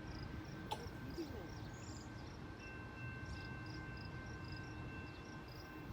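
Faint, regular high-pitched chirping of insects, repeating about three times a second, over quiet outdoor background noise. A thin steady whine joins about halfway through.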